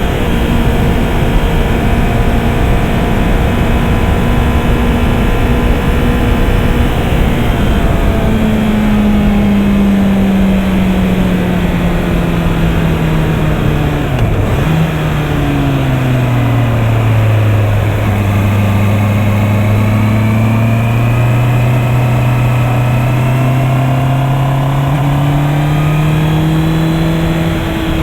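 Honda CB650R's 649 cc inline-four engine running under way: a steady cruising note, then the pitch falls slowly as the bike slows, with a brief dip about halfway through (a gear change), before it climbs gently again near the end. Heavy wind rush over the microphone, strongest in the first part.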